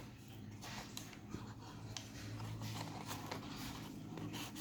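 Faint scraping and rustling of powdered starch, tapioca being mixed into cornstarch in a box, over a steady low hum.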